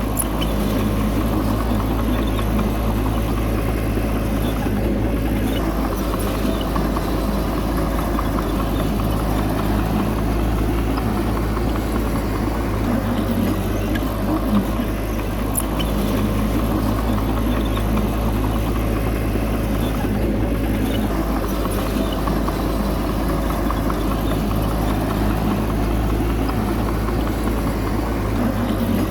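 Heavy diesel engine of earthmoving machinery running steadily at an even pitch, with a few faint clicks.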